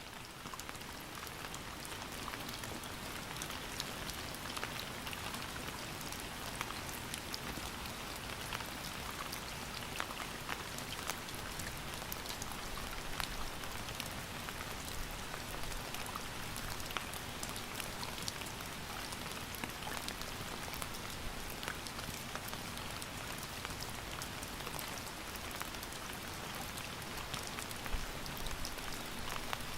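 Steady rain falling, an even hiss with many distinct drop hits scattered through it.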